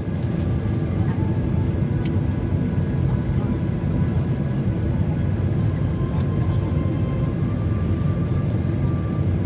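Steady low rumble inside the cabin of a Boeing 737-800 on the ground before takeoff, with a faint high, even whine running over it.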